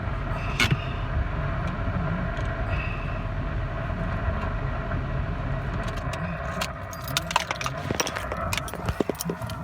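Cabin road noise of a 2018 Subaru Crosstrek driving on a snowy road: a steady low rumble with a faint hum. In the last few seconds there are scattered clicks and rattles.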